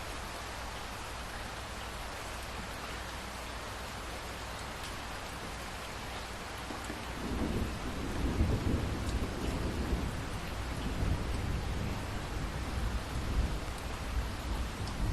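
Steady rain falling, with a low rumble of thunder rolling in about halfway through and carrying on to the end.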